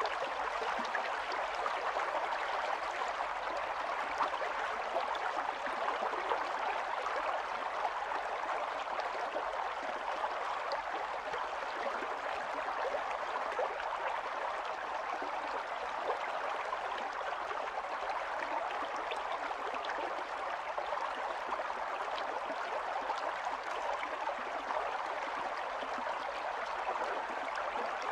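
Stream of running water flowing and babbling steadily over stones.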